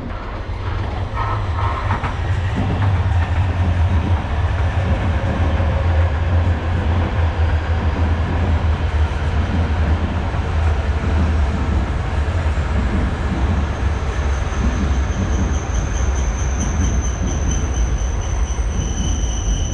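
Shinkansen train running by at close range: a loud, steady, heavy rumble with rail noise, and a high thin whine that joins in about 14 seconds in.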